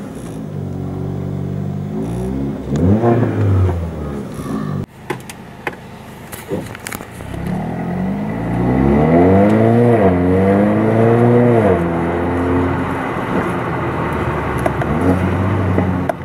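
Mercedes-AMG CLA 45's 2.0-litre turbocharged four-cylinder engine heard from inside the cabin: idling, one quick rev about three seconds in, then, after a cut, pulling away in drive, its note rising, dipping once at a gear change, rising again and then settling.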